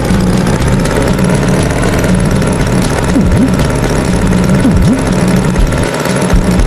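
Tractor engine running steadily with a chugging pulse. Two brief swooping tones come through about three and five seconds in.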